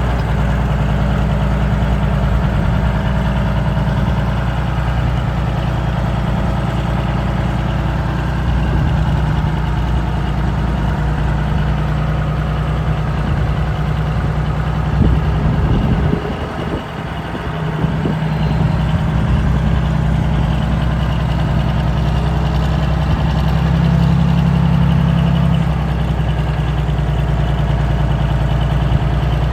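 Engine of a 1976 Drott 2510 truck crane running steadily at idle. About sixteen seconds in, the note falters and dips for a moment, then settles back.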